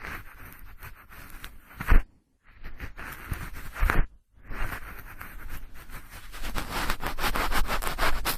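Cotton swab swirled and rubbed inside the ear of a binaural microphone: close, scratchy rubbing in stretches broken by brief silences, with a louder bump at about two and again at four seconds in.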